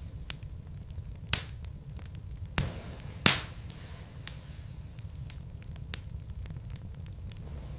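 Wood logs burning in a fireplace, crackling with scattered small clicks and a few louder sharp pops, the loudest a little over three seconds in, over a steady low rumble.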